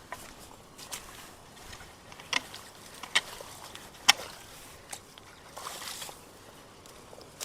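Shallow water splashing and sloshing, broken by a few sharp knocks and splashes, the three loudest about a second apart in the middle, as debris is worked loose in a flooded roadside ditch so the pooled water can drain.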